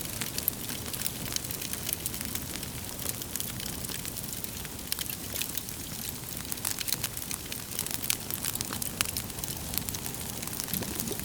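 Wood fire burning in a fireplace: many sharp, irregular crackles and pops from the burning logs over a steady low rumble of the flames.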